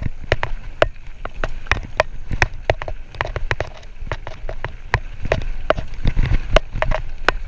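Mountain bike rattling down a rough dirt trail: irregular clicks and knocks several times a second from the tyres, chain and frame, over a low rumble of wind on the microphone.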